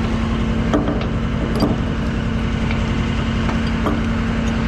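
Truck engine idling steadily, with a few short metallic clicks of chain and hooks being handled.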